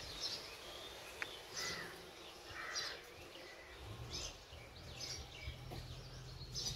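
Faint outdoor background with birds chirping now and then in short calls, and one light click about a second in.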